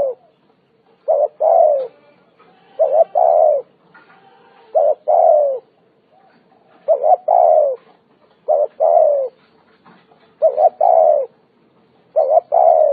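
Spotted dove cooing: repeated phrases of a short note followed by a longer, slightly falling coo, about one phrase every two seconds.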